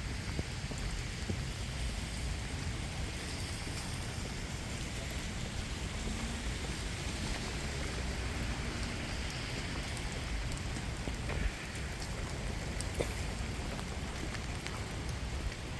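Steady rain falling, with scattered drops ticking close by and a low rumble underneath.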